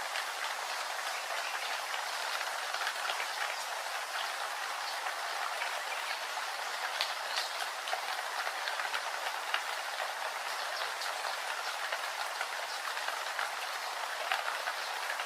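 Steady rain falling, with scattered louder drops ticking against a surface.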